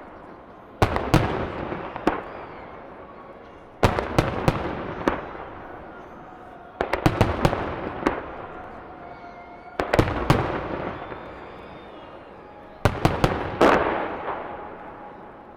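Aerial firework shells bursting in clusters of sharp bangs about every three seconds, five times. Each cluster is followed by a long fading rumble and crackle, heard from about 300 m from the launch site.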